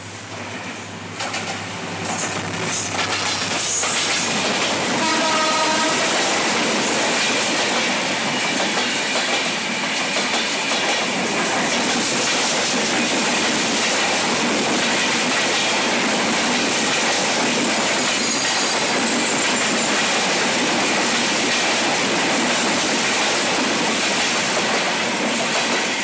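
Silk City Express train running past close by, its noise building over the first few seconds into a loud, steady rumble of wheels on rails that lasts to the end. A short horn blast sounds about five seconds in.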